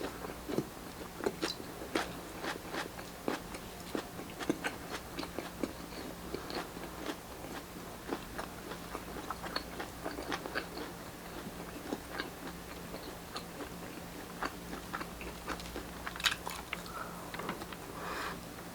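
Close-up chewing and biting of barbecued street food: irregular crunchy, clicky mouth sounds, with a louder crunch near the end.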